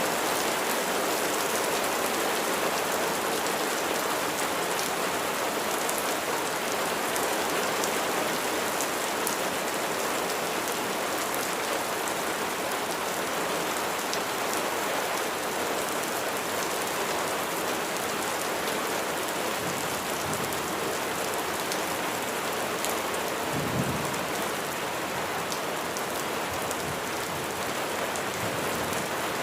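Steady heavy rain, a dense even hiss with scattered sharper drop taps. About 24 seconds in there is a brief low rumble of thunder.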